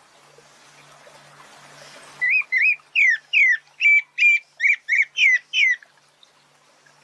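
Pale-breasted thrush (sabiá-barranco) giving a quick run of about a dozen short, clear whistled notes over three and a half seconds, some slurring downward and some held level.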